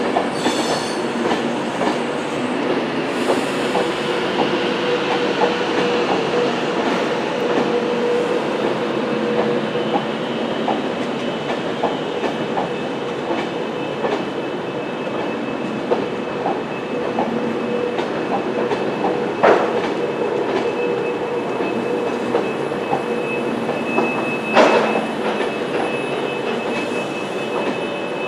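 Class 390 Pendolino electric train running slowly past a station platform, with a steady whine and a stream of small wheel clicks over the rail joints. Two louder knocks come in the second half.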